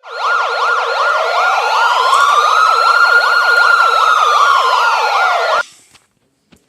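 Police siren with a fast yelp, about two and a half sweeps a second, layered over a slow wail that rises and falls once. It is loud and cuts off suddenly about five and a half seconds in.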